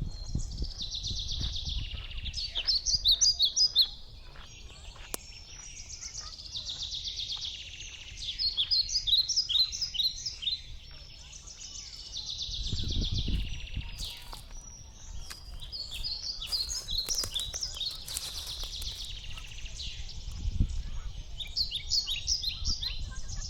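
A songbird singing the same short phrase over and over, about every six seconds: a rapid trill that breaks into a run of loud, separate notes. A low rumble lies underneath.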